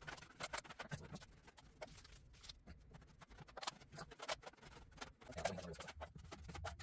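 Faint, irregular clicks and scrapes of hand tools working a drywall patch, with a low hum underneath.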